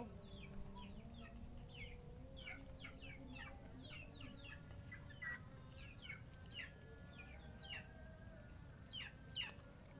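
Birds chirping: a run of short, quick, falling chirps, a few each second, over a faint steady background hum.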